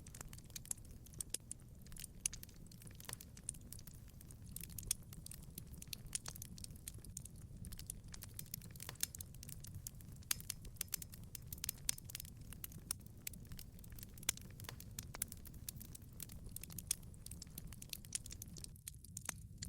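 Wood fire crackling in a wood-fired pizza oven: irregular sharp pops and snaps over a steady low rumble.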